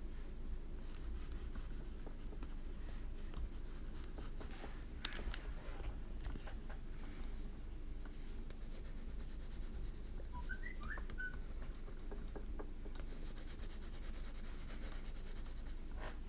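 Water-soluble wax pastel (Caran d'Ache Neocolor II) rubbing and scratching across paper as a colour is laid down, faint over a steady low hum.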